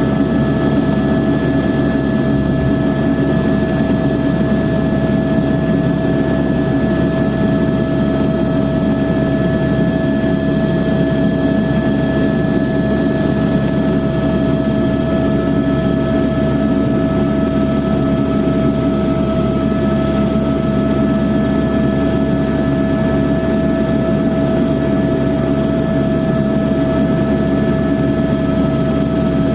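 Helicopter in steady flight, heard from inside the passenger cabin: a loud, constant drone with steady whining tones over it, unchanging throughout.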